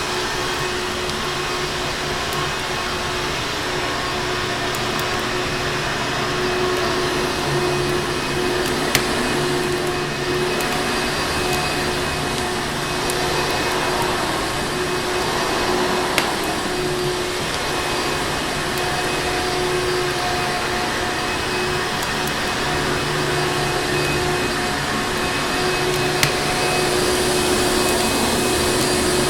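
Electric vacuum cleaner running steadily with a constant whooshing hum, mixed with a wood fire. The fire gives three brief sharp pops spread through the stretch.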